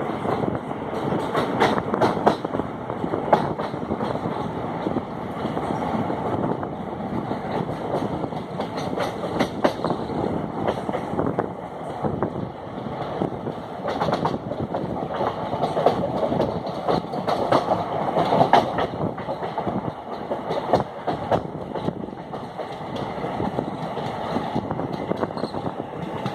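A moving train's steady rumble and rattle, heard from inside the carriage, with irregular sharp clacks as the wheels run over the rails.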